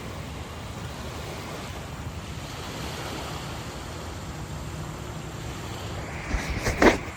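Wind buffeting the microphone with a steady low rumble over river water lapping at the bank. Near the end comes a short cluster of louder noisy strokes.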